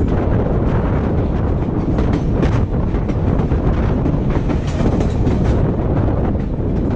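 A train running along the track: a steady, loud rumble.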